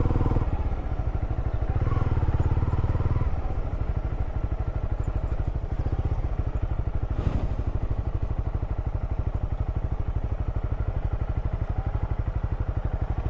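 Motorcycle engine running steadily with an even pulsing beat, a little louder for the first few seconds before settling.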